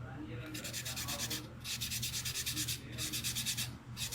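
Sandpaper rubbed lightly by hand over the rotor of an Anschutz Standard 20 gyro compass pump: three bouts of quick scratching strokes of about a second each, with short pauses between, cleaning discoloration off the rotor surface. A steady low hum runs underneath.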